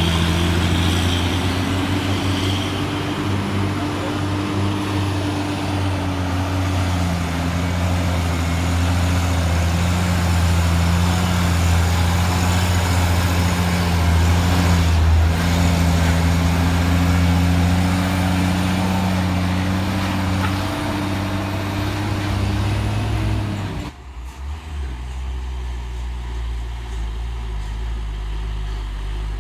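Heavy truck diesel engines pulling under load up a steep climb, a steady deep drone. About 24 seconds in it cuts off abruptly to a quieter low rumble.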